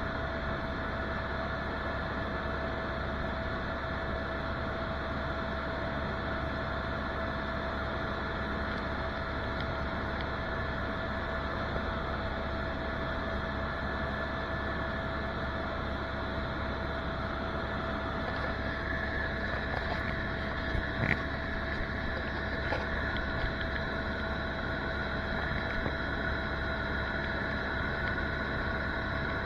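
Helicopter running: a steady drone with a constant whine over it, and a few faint clicks about two-thirds of the way through.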